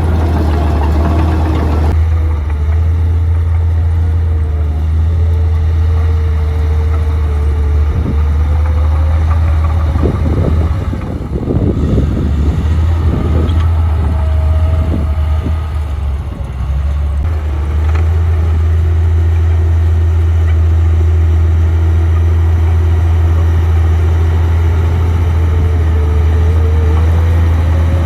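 Komatsu D58P bulldozer's diesel engine running under working load, its pitch rising and falling. There is some knocking about halfway through.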